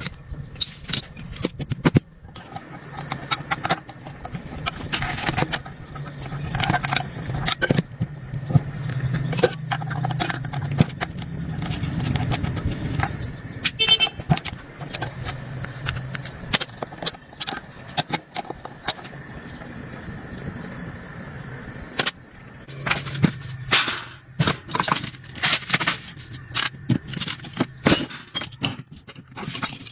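Hand-tool and metal-part workshop noise: irregular clicks, knocks and clinks, thickest near the end, with a low hum in stretches.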